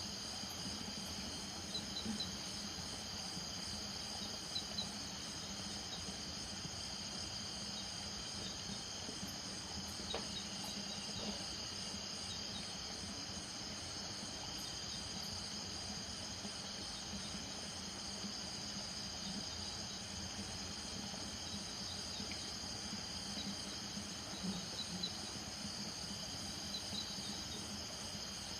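Night chorus of crickets and other insects: several high, steady trills, one of them pulsing evenly, with short chirps now and then. Underneath, lower frogs or toads call on and off from a wetland.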